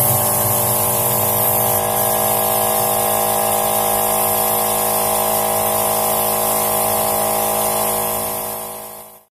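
Steady drone of an air compressor with the high air hiss of a gravity-feed paint spray gun, fading out near the end.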